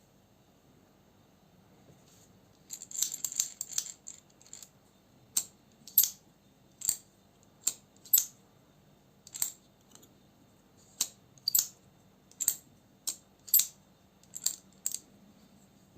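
Small metal parts clicking sharply against each other: a brief rattling flurry, then a dozen or so single clicks about one a second.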